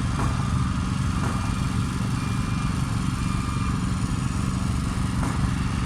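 Garbage truck's diesel engine idling steadily with a low, even rumble.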